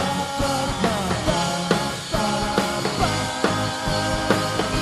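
Live pop-punk rock band playing: a drum kit keeps a steady beat of a little over two hits a second under electric guitars and other held pitched parts.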